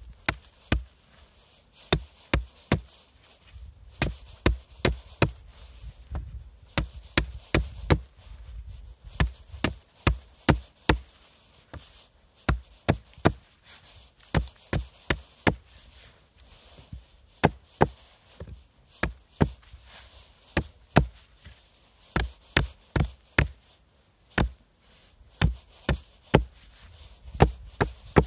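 Repeated sharp chopping strikes on wood, in short runs of a few quick blows with brief pauses between.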